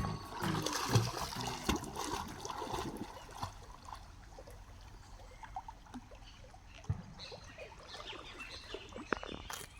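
Water trickling and splashing around a paddled boat on a river, with a sharp knock about seven seconds in and another near the end.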